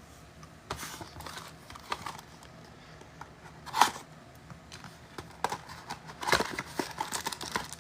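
Plastic wrapper of a Panini Prizm football card hanger pack being torn open and handled. Scattered crinkles and rustles, with a sharper tear about four seconds in and denser crinkling near the end.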